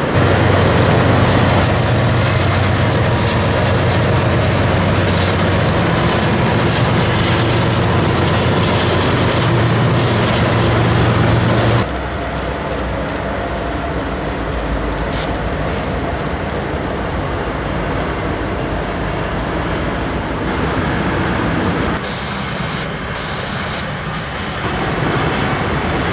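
Freight train crossing a steel girder bridge: a steady, loud rumble of double-stack container cars on the rails. About twelve seconds in, the sound cuts abruptly to a somewhat quieter passage of CN diesel locomotives rolling across the bridge.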